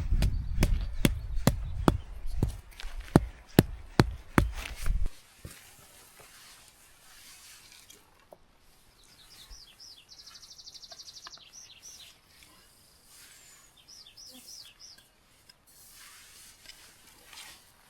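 Footsteps, about two a second, stop about five seconds in. Then a small songbird gives a rapid high trill and a few short chirps against a quiet outdoor background.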